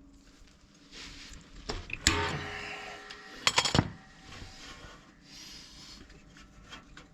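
Metal tools and parts being handled: a sharp metallic clank about two seconds in that rings briefly, a quick cluster of clicks and knocks about a second and a half later, and quieter scraping and handling between.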